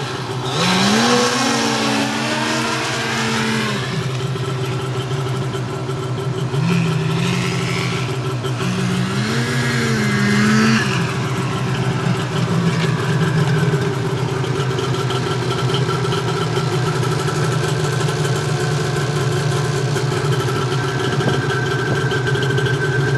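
Ski-Doo MXZ snowmobile engine revving up and down several times, then settling to a steady idle for the second half.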